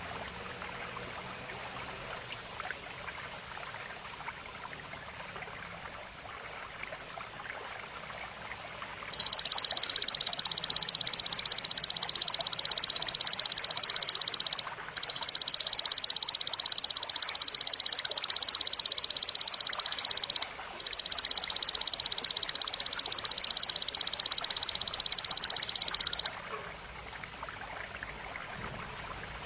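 A belalang, a grasshopper-type singing insect, gives a loud, shrill, rapidly pulsing buzz. It starts about a third of the way in and runs in three long bouts with two brief breaks, then stops near the end. Before it there is only a faint, even hiss.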